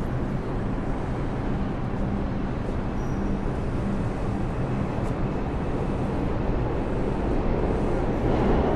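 Steady city street traffic noise with a low engine hum underneath, swelling louder near the end.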